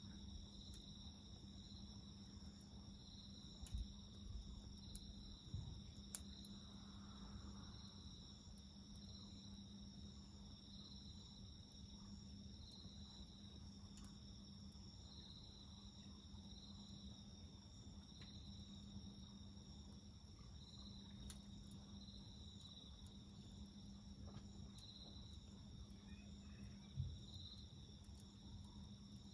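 Faint insects singing in a steady high-pitched trill that swells about once a second, over a low steady hum. A few short crackles from a wood fire come through about 4 and 6 seconds in and again near the end.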